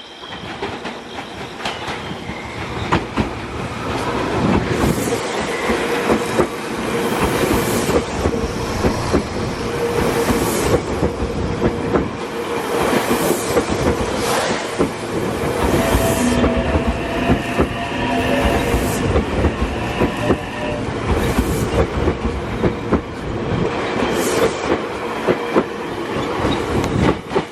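A Meitetsu electric train passing over the level crossing, its wheels clacking in quick, irregular beats over the rail joints. The sound builds over the first few seconds, holds loud, and drops away at the end.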